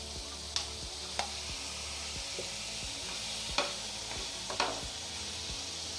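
Boiled peas and carrots sizzling in hot oil and soy sauce in a pan while being stirred, with a steady hiss and a few sharp knocks of the stirring utensil against the pan.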